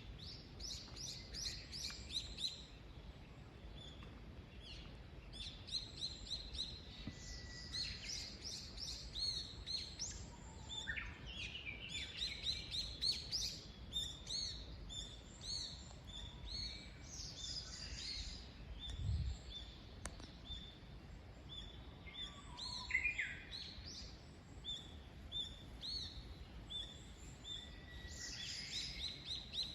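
Small wild birds chirping and singing, several at once, in short repeated calls and trills over a faint steady background hiss. There is a soft low thump about two-thirds of the way through.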